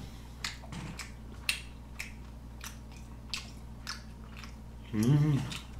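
Close-up mouth sounds of a person chewing a mouthful of sushi: irregular wet smacks and clicks, with a brief hummed voice sound about five seconds in.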